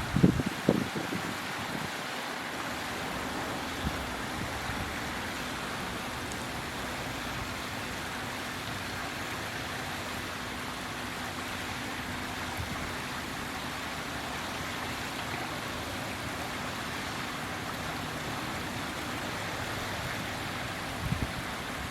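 Steady outdoor rushing noise, with a faint low hum throughout and a few low thumps in the first second and again near the end.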